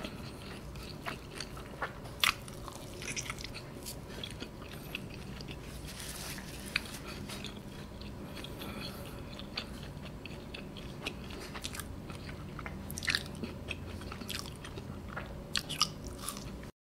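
Close-miked chewing and biting of soft, cheese-laden pizza, with scattered wet mouth clicks and smacks. The sound cuts off abruptly just before the end.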